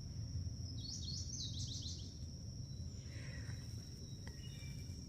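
A bird sings a quick run of short falling notes about a second in, over a steady high-pitched insect drone and a low rumble.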